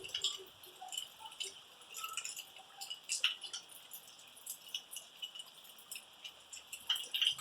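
Rain dripping: irregular drops tapping and clicking over a steady high hiss.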